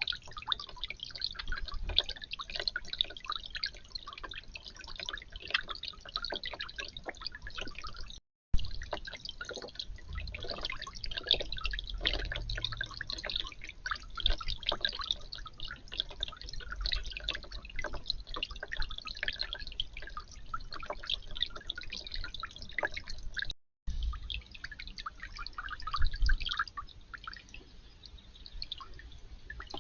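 Water dripping and trickling in quick, irregular drops, as from a backyard fountain, with a low rumble underneath. The sound drops out completely for a moment twice, about eight seconds in and again near twenty-four seconds.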